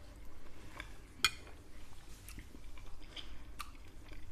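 Close-miked chewing of canederli (bread dumplings) in broth: soft wet mouth sounds and small clicks, with one sharper click a little over a second in.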